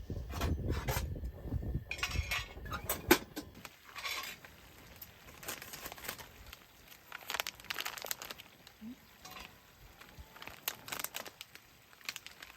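Plastic food packaging crinkling and rustling as it is handled, with scattered light clicks and knocks of items being picked up and set down; busiest in the first few seconds, sparser after.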